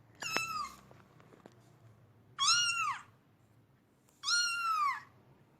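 Domestic cat meowing three times, each meow rising and then falling in pitch, about a second or more apart.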